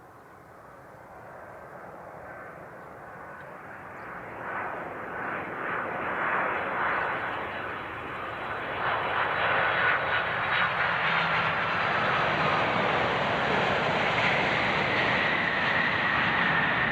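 Jet airliner engines growing steadily louder as the aircraft approaches and passes close overhead. A high engine whine comes through and drops slightly in pitch in the second half.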